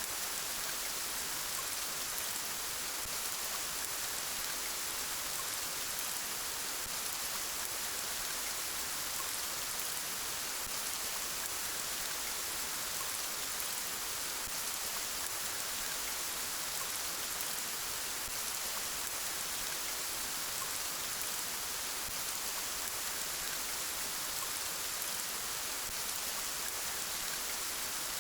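Steady, gentle rain: an even hiss of falling drops that holds at one level throughout.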